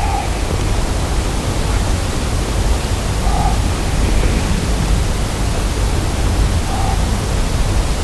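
Steady loud hiss with a low rumble underneath, with faint short tones about every three seconds.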